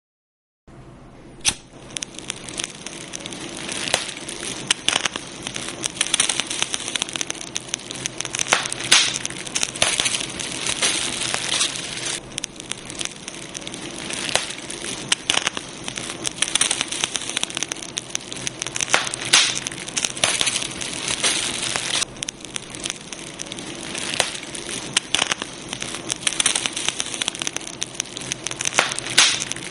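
Campfire crackling: a steady hiss with frequent irregular sharp pops and snaps. It starts about half a second in, and a loud pop comes soon after.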